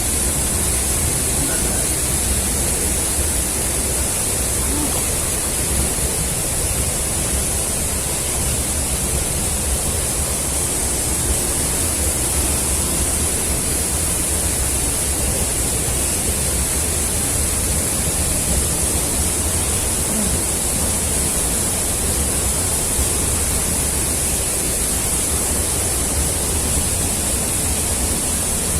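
Steady rush of falling and flowing water from an underground waterfall and river, an even unbroken noise.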